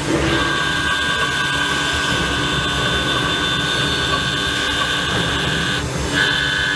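CNC machining equipment running with a steady whine of several held tones over a noisy hum, which breaks off briefly and resumes about six seconds in.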